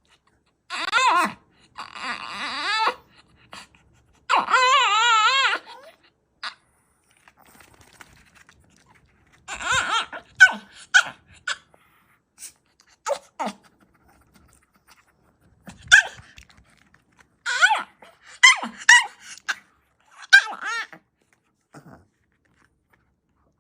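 A dog making strange warbling whines and yowls. There are two long wavering calls in the first six seconds, then a run of shorter yelps and whines from about ten seconds in.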